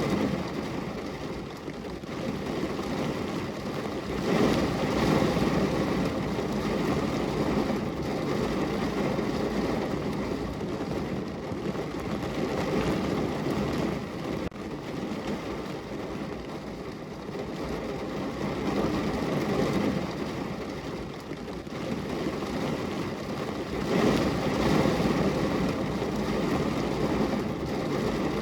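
Heavy rain falling on a car's roof, heard from inside the car: a dense, steady patter that briefly swells louder about four seconds in and again near the end.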